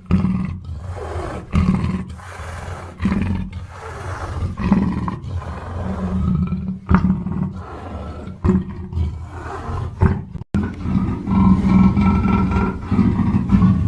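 A black panther calling in a run of short, low calls, one after another, with a brief dropout about ten and a half seconds in.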